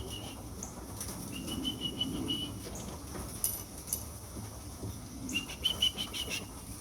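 Pigeons' wings flapping and clattering as birds land and come in through the loft trap, with two spells of thin, high chirping.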